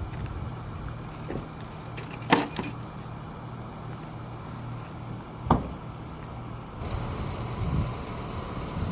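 Vehicle engine idling with a steady low hum, broken by two short, sharp knocks, one about two and a half seconds in and one about five and a half seconds in.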